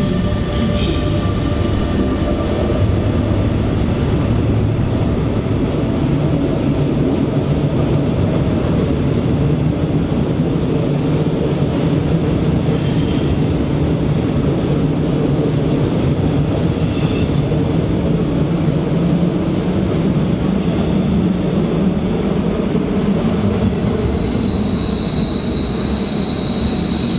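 A train rolling through a station with a steady low rumble; a high, steady wheel or brake squeal sets in near the end.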